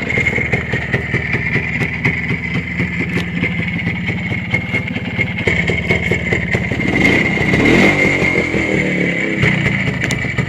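Two-stroke single-cylinder motorcycle engine running, revved up around seven to eight seconds in, then settling back to a steady run.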